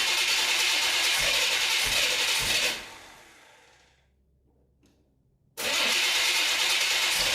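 1990 Camaro's small-block Chevy 350 V8 running. It dies away about three seconds in, leaving a couple of seconds of near silence, then the running sound cuts back in suddenly.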